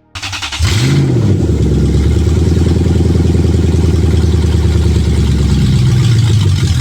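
Lexus 3UZ-FE 4.3-litre V8 starting: a brief crank, catching with a short rev flare about a second in, then idling steadily. The engine is in a Mercedes whose computer cuts its fuel supply through the fuel pump relay, so it soon runs out of fuel.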